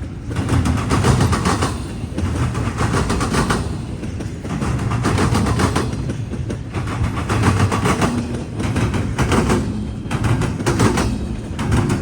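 CSX freight train's wheels pounding over a railroad diamond crossing. Each set of car wheels hitting the crossing gaps makes a burst of rapid clattering impacts, repeating every second or two.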